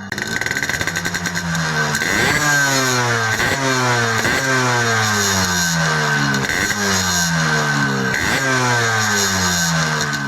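Yamaha RX-King's two-stroke single-cylinder engine revving again and again through a gutted 'bobokan' exhaust. The pitch climbs with each blip of the throttle and falls back, roughly once a second.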